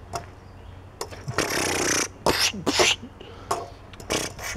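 A man making mouth sound effects for a toy airplane in flight: a long hissing whoosh about a second and a half in, then a few short breathy bursts.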